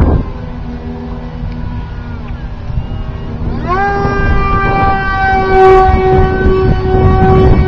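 Brushless electric motor and 6x4 propeller of an RC foam jet whining in flight. A brief loud rush comes right at the start; then, nearly four seconds in, the pitch jumps sharply up as the throttle is opened and holds high and steady.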